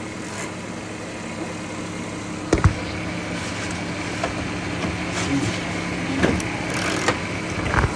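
VW Touareg engine idling steadily, with a few sharp knocks and clicks from hands working at the headlight in the engine bay, the loudest about two and a half seconds in.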